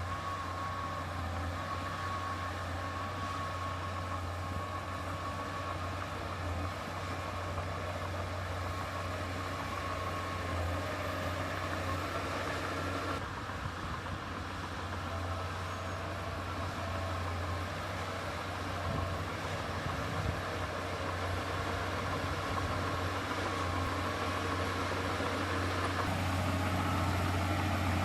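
Heavy diesel earthmoving machinery engine running steadily, with a deep low hum and a faint whine above it. The sound shifts slightly about halfway through and again near the end.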